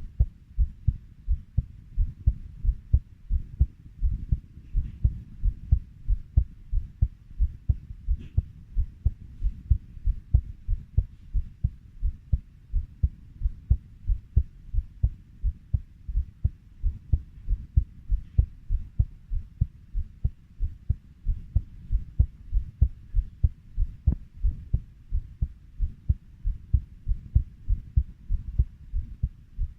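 Human heartbeat, steady at 90 beats a minute, each beat a pair of low thumps.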